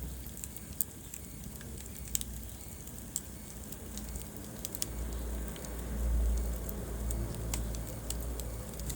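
Wood fire burning in a fireplace: a steady low rumble of the flames with scattered sharp crackles and pops of burning wood, the rumble swelling a little past the middle.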